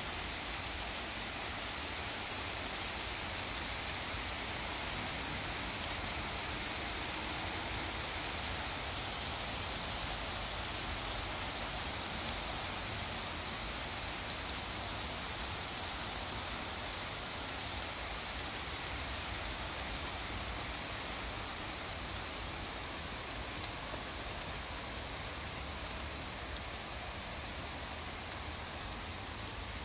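Steady rain falling on the leafy woodland canopy, an even hiss with no let-up, easing slightly in the second half.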